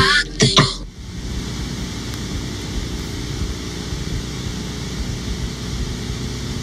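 The end of a sung phrase from the song cuts off about a second in. After it comes a steady rushing noise, like surf or wind, that holds at an even level.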